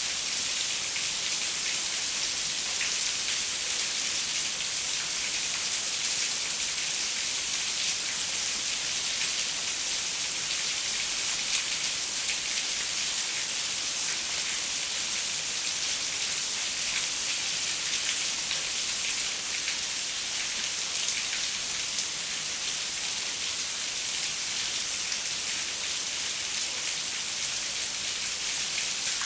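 Steady rain, dense patter of drops striking a window, a hiss with fine ticks of individual drops.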